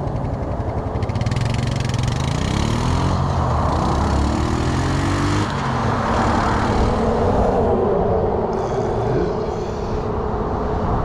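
A vehicle engine accelerating, its pitch climbing for a few seconds and breaking off, then climbing again and holding steady.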